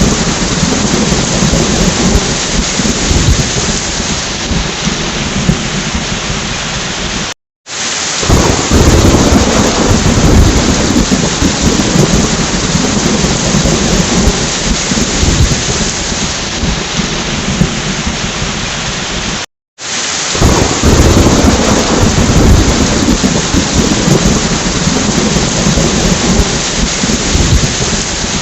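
Steady rain with rolling thunder rumbles that swell and fade. Twice, about twelve seconds apart, the sound cuts out completely for an instant, then comes back with a louder rumble.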